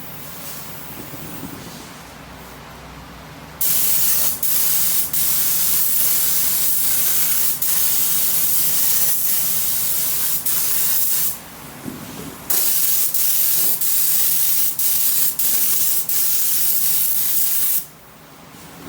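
Compressed-air paint spray gun hissing in long bursts while spraying paint on an engine, cutting off for a moment over and over as the trigger is let go, with one longer pause about two-thirds of the way through.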